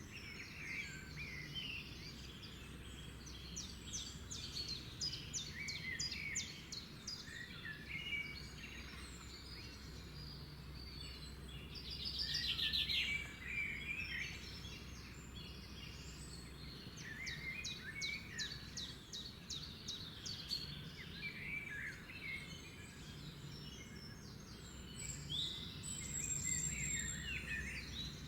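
Several songbirds singing and calling together, with overlapping chirps and quick trills of rapidly repeated notes and a louder burst of song about twelve seconds in, over a steady low background rumble.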